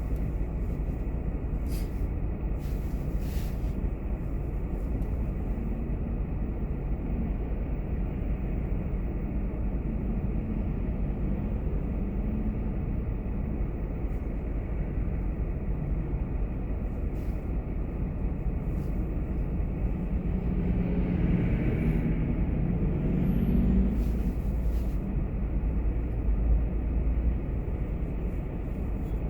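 Car driving: a steady low road and engine rumble that grows louder about twenty seconds in, with a few faint clicks.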